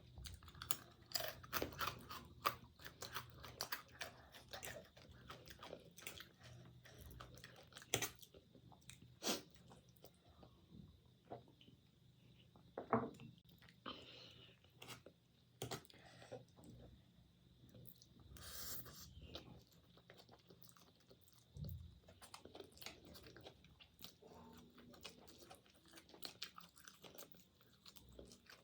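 Close-miked chewing and crunching of food in the mouth, with many short, crisp clicks and smacks, busier in the first half.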